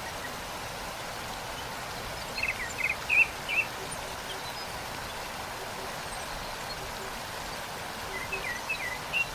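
Waterfall's steady rush of falling water, with songbirds chirping over it: a quick run of short chirps about two to three and a half seconds in, and more chirps near the end.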